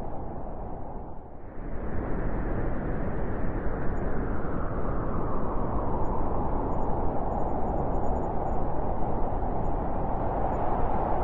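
Wind blowing in gusts, with a deep rumble and whoosh. It eases briefly about a second in, then rises into a strong, sustained gust.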